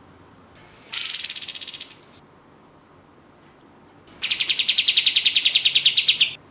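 Kapas tembak (katem) bird singing two rapid rattling trills of fast repeated notes, the first about a second long, the second longer and running about two seconds, ending abruptly.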